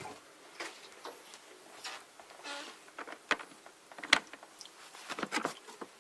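Plastic parts of a humidifier being handled: scattered light clicks and knocks, with a sharper knock about four seconds in and a quick run of clicks near the end.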